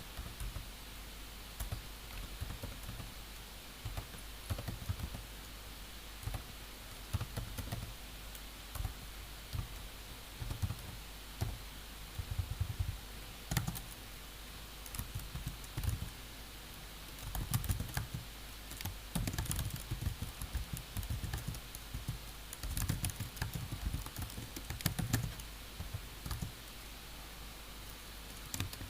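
Computer keyboard typing in irregular bursts of key clicks, with short pauses, busier in the second half.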